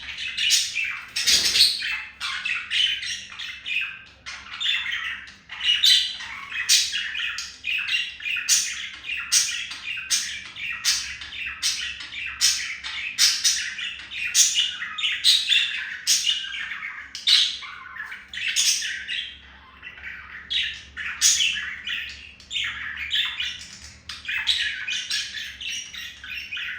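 Budgies chattering without a break: a fast, scratchy run of short chirps, clicks and squawks.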